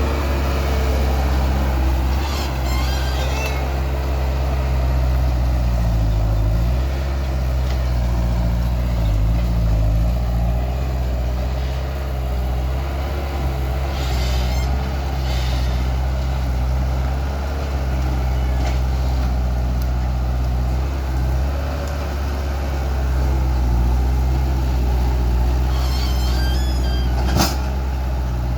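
Skid steer loader's diesel engine running steadily, its speed dipping and rising now and then as the machine works. Short high squeaks come through a few times, and there is one sharp metallic knock near the end.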